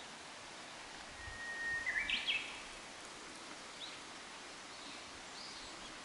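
A songbird singing: one held whistled note, then a quick flourish of higher notes, about two seconds in, with a couple of fainter short calls later. Under it runs a steady background hiss.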